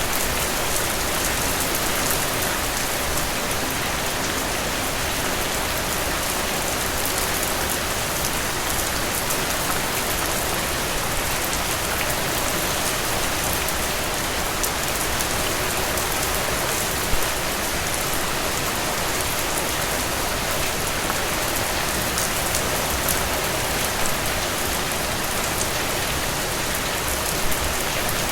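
Steady rain falling on foliage and surfaces, an even hiss with occasional louder single drops.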